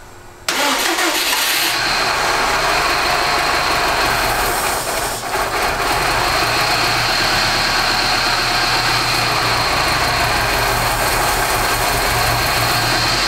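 Subaru WRX STI's turbocharged flat-four engine, once flooded with water, firing on a shot of starter fluid about half a second in and then running steadily, with a brief dip about five seconds in.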